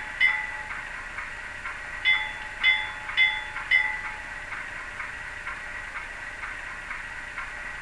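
Digital locomotive bell from an ESU LokSound Select decoder, played through the HO model's small speaker: one ding just after the start, then four more about half a second apart from about two to four seconds in. Faint regular ticking and a steady hiss run underneath.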